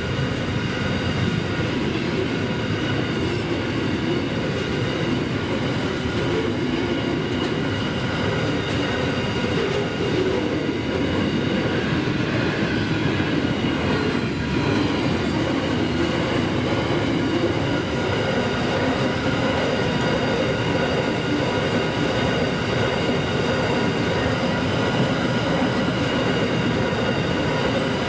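Freight train of steel-coil flat wagons and container wagons rolling steadily past, a continuous rumble of wheels and wagons on the rails. Several steady high-pitched tones ring on above the rumble throughout.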